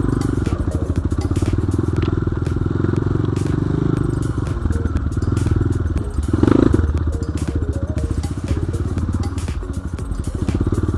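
BSE J1 enduro motorcycle engine running under load while riding, revving harder about six and a half seconds in.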